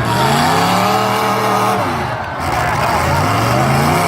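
Racing engines revving up and dropping back, in two long rises and falls with a brief lull between them.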